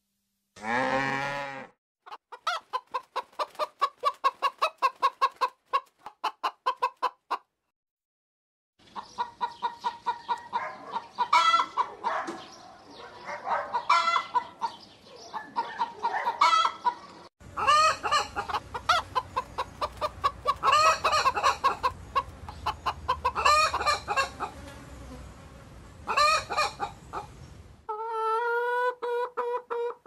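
A short, low moo from a dairy cow at the very start, then domestic chickens clucking: first a quick run of clucks, then busier clucking and squawks from a flock. Near the end comes one long, drawn-out call.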